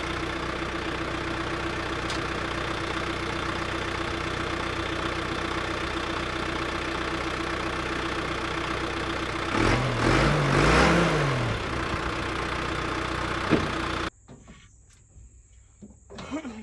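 An engine running steadily, with a brief rise and fall in pitch about ten seconds in, then cutting off abruptly near the end.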